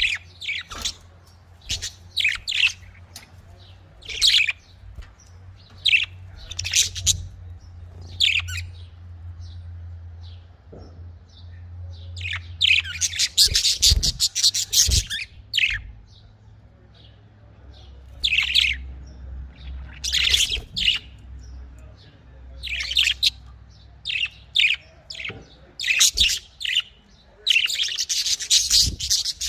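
Budgerigars chirping and chattering in short, repeated high calls, with denser bouts of chatter about halfway through and near the end.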